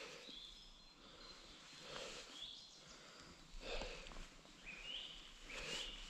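Faint birdsong in woodland: short, held whistled notes that step up in pitch. Soft footfalls of bare feet on damp moss come about every two seconds.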